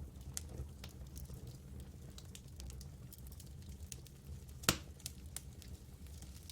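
Campfire burning: wood crackling with scattered small pops and one loud, sharp pop about three-quarters of the way through, over a low steady rumble.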